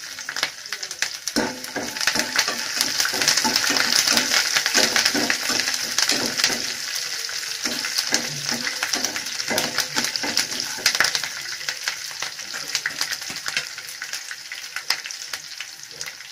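Peanuts, curry leaves, green chillies and garlic cloves sizzling and crackling in hot oil in a non-stick kadai. They are stirred for most of the first ten seconds or so, and the sizzle eases off near the end.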